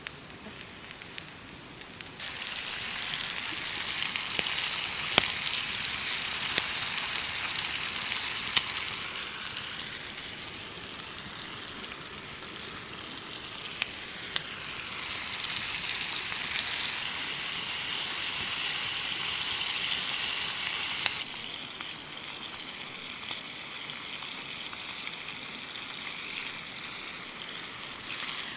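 Chopped onions and vegetables sizzling as they fry in a pan over a wood fire, the sizzle swelling, easing off mid-way and rising again, with a few sharp clicks.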